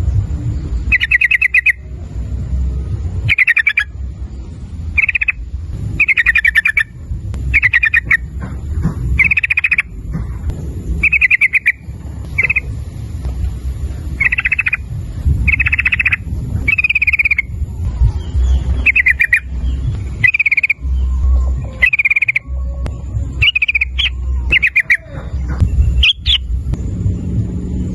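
Yellow-vented bulbul (trucukan) singing: short, quick bubbling phrases repeated about once a second, over a low steady rumble.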